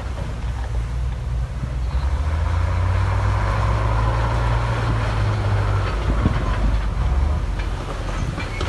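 Heavy diesel engine of earthmoving machinery running with a deep, steady drone that builds through the middle and eases off after about six seconds, with a faint whine sliding down in pitch. Scattered metallic knocks come near the end.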